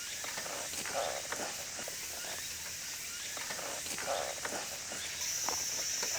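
Insects buzzing steadily in the woods, with a higher, steady insect trill starting about five seconds in, and a few soft clicks like footsteps or handling.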